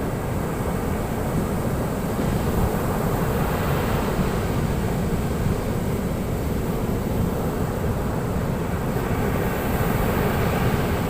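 Ocean surf: waves breaking on a beach in a continuous rush, swelling a little about two seconds in and again near the end.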